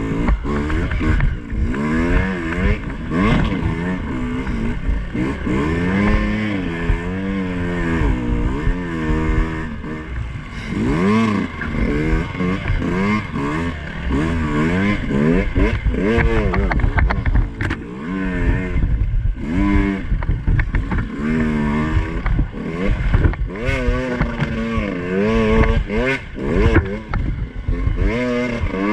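Two-stroke dirt bike engine revving up and down over and over as it is ridden along a rough trail, the pitch rising and falling every second or so.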